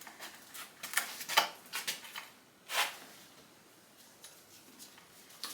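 Light metal clinks and knocks of hand tools and parts being handled at the engine, several in the first two seconds and a louder one nearly three seconds in.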